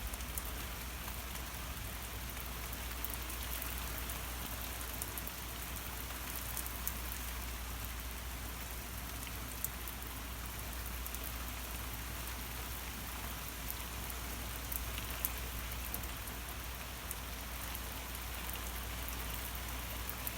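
Heavy rain pouring down steadily, with scattered sharp ticks of individual drops striking.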